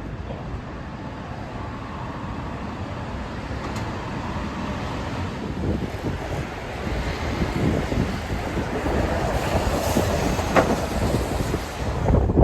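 Train running on its rails with a rattling, low rumble that grows steadily louder.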